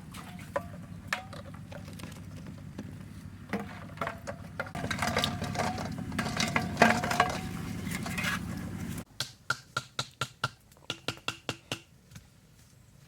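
Sharp taps and clinks, some ringing briefly, over a steady low hum that cuts off about nine seconds in. A quick run of about a dozen taps follows.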